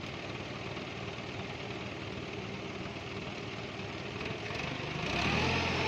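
Truck engine running steadily. About five seconds in, a louder, deeper engine note comes in and builds.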